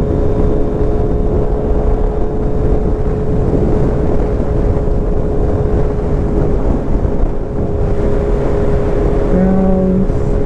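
A 2023 Kawasaki Z900's inline-four engine running at a steady cruise, mixed with loud wind rush over the microphone. The engine note holds even, with no revving up or down.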